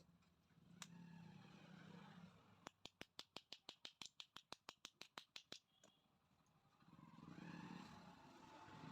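A ratchet mechanism clicking rapidly and evenly, about seven clicks a second for about three seconds. Softer handling noises come before and after it.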